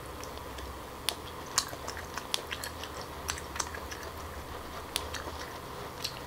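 Close-up chewing of steamed abalone meat: faint, irregular mouth clicks and smacks as the piece is bitten and chewed.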